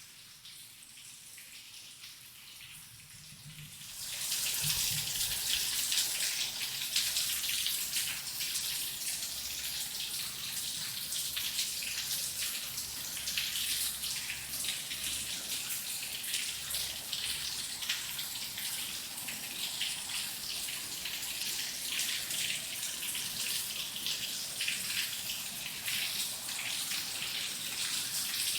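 Heavy rain falling, a dense hiss of countless small drop patters. It swells suddenly to much louder about four seconds in, then keeps up steadily.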